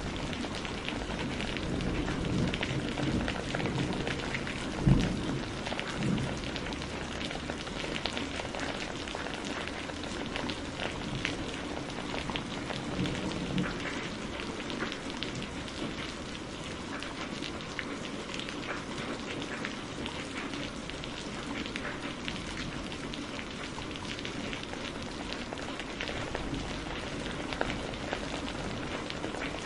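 Steady rain mixed with a fireplace crackling. Low thunder rumbles through the first several seconds, with one sharp crack about five seconds in.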